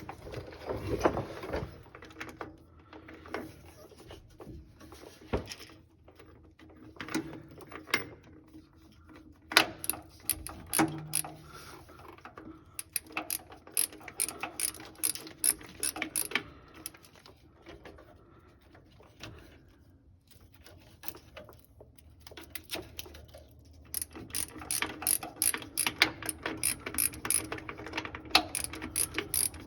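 Socket ratchet clicking as a starter mounting bolt on a Ford 5.4 V8 is worked loose with a 13mm socket on extensions, in bursts of rapid clicks with pauses between, the runs busiest near the end.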